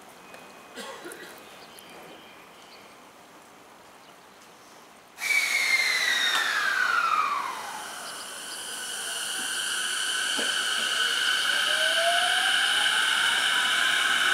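Electric train at a station platform: a loud rush of train noise starts suddenly about five seconds in, with a whine falling in pitch over about two seconds. Then a second whine rises steadily in pitch, alongside high, steady squealing tones.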